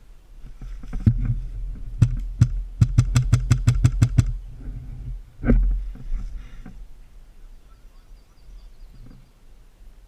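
Airsoft gun firing: two single shots about two seconds in, then a rapid burst of about ten shots at roughly seven a second. A heavier thump follows about halfway through, over a low rumble of movement and wind on the microphone.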